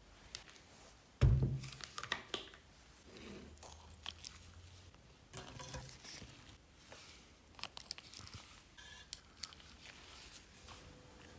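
Hand work on parts: a heavy thump about a second in, then scattered clicks, taps and short scrapes of things being handled and set down.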